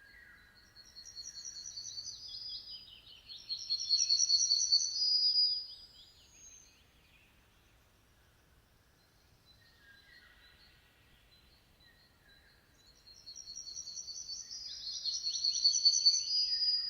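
A songbird singing two long phrases, one starting right away and one near the end. Each opens with a few softer, lower notes and then runs into a fast series of high notes that grows louder.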